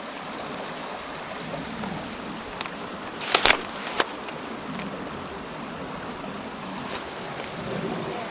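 A river rushing steadily. A few sharp clicks stand out in the middle, the loudest a pair about three and a half seconds in. A short run of faint high chirps comes in the first second or so.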